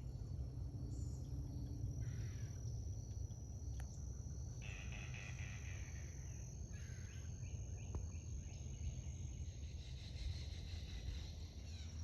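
Swamp ambience: a steady high insect drone, with bird calls a few times, over a low rumble.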